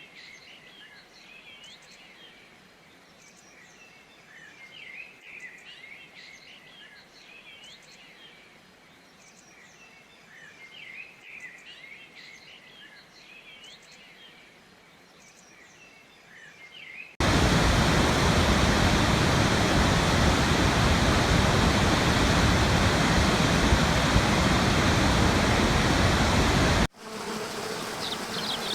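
Faint outdoor ambience with scattered high chirping calls, then about halfway through an abrupt cut to the loud, steady rush of a waterfall. Near the end it cuts suddenly to a softer rush of running water with a few chirps.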